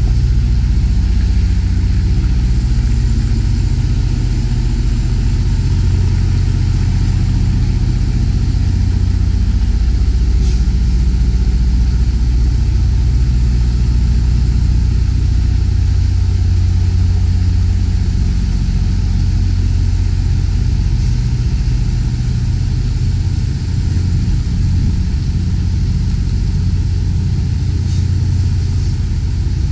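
Semi-truck's diesel engine running steadily at low revs while the tractor-trailer is backed slowly: an even low hum with no revving.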